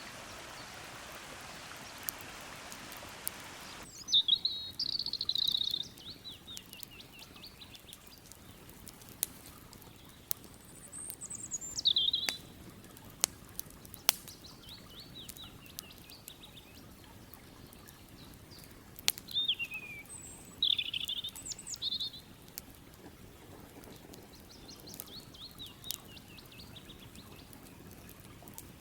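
Small songbirds singing in repeated trilling phrases, with a few falling whistles, while a campfire gives off occasional sharp crackles and pops. A steady rushing hiss fills the first few seconds and cuts off abruptly about four seconds in.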